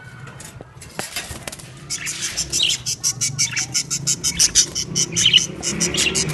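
Small birds chirping in quick, high, repeated calls, sparse at first and then a busy run of about five chirps a second from about two seconds in.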